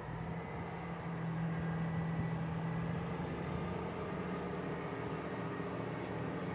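Two coupled Class 158 Sprinter diesel multiple units pulling away under power. Their underfloor diesel engines run with a steady low drone that grows louder over the first couple of seconds.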